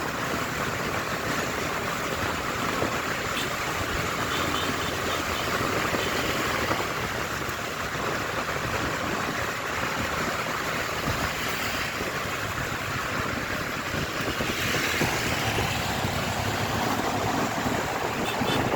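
Motorcycle on the move, heard from a camera mounted on the bike: a steady rush of wind and road noise over the running engine.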